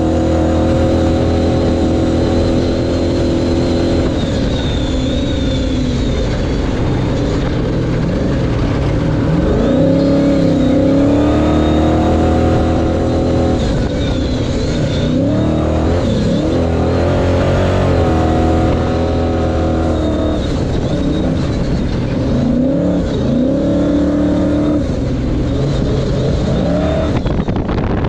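Ford Ranger pre-runner race truck's engine under hard driving. Its pitch holds steady for stretches, then repeatedly swings up and drops with throttle and gear changes, loud throughout.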